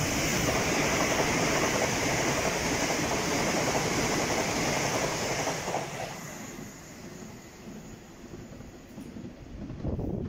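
Southern Class 377 Electrostar electric multiple unit passing close at speed: a loud rush of wheels on rail with a steady high hiss, fading away about six seconds in.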